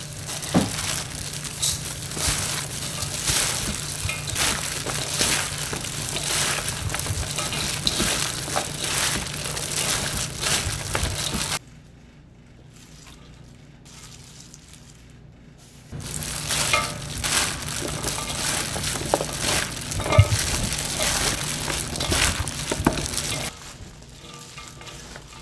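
Fish cake sizzling as it is stir-fried in a pan, with frequent short clicks and scrapes of the spatula. The sizzle breaks off about eleven seconds in for some four seconds, comes back, and dies down shortly before the end.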